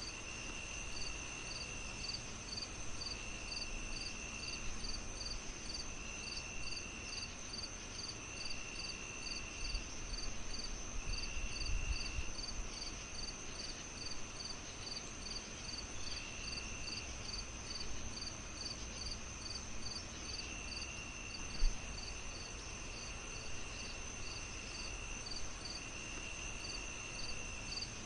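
Crickets chirping steadily, evenly spaced chirps about two to three a second over a continuous high trill, with a second insect trilling in stretches of a second or so. A faint low rumble lies underneath, and a single soft pop comes a little past the middle.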